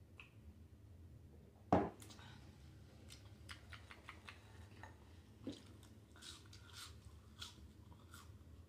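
Close-up mouth sounds of eating: a single loud knock about two seconds in, then many short wet clicks and smacks of chewing french fries.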